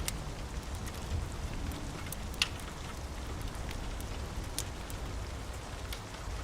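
Steady rain falling, with a low rumble underneath and scattered sharp crackles from a wood fire in a fireplace, one louder pop about two and a half seconds in.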